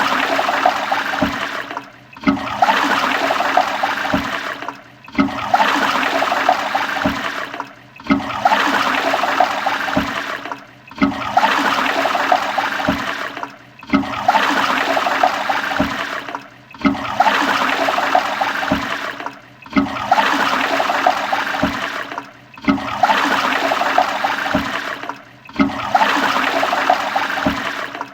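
Toilet flushing: a rush of water with gurgles, cut into short stretches that repeat about every three seconds, each with a brief dip between.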